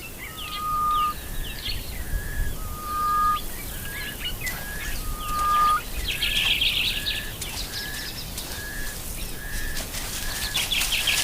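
Several wild birds calling: a held whistle repeated a few times in the first half, and a steady series of short, higher notes about three every two seconds, with quick chirps over the top.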